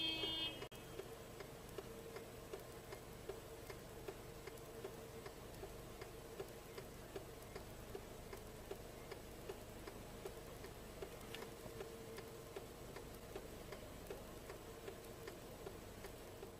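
Faint, regular ticking, about two or three ticks a second, over a low steady hum.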